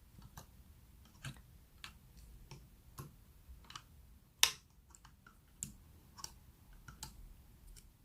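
Slime being squished and poked by hand, giving irregular small clicks and pops, with one sharper, louder pop about four and a half seconds in.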